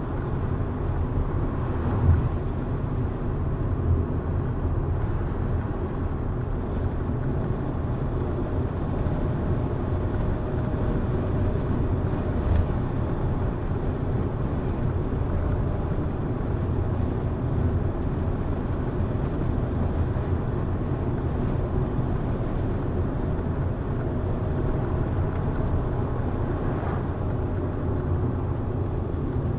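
Car driving at a steady pace: constant low rumble of engine and tyres on the road, with a few brief knocks from bumps.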